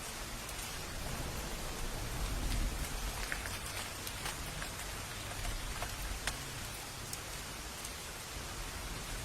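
Steady rain falling, with scattered individual drops ticking sharply and a low rumble swelling about two seconds in.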